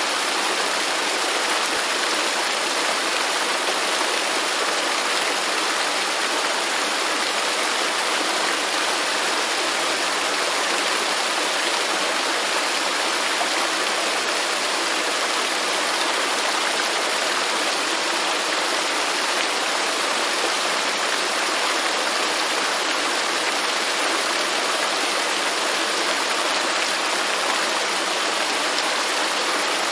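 Waterfall: a steady, unbroken rush of falling water, a dense hiss spread across the high and middle range with little low rumble.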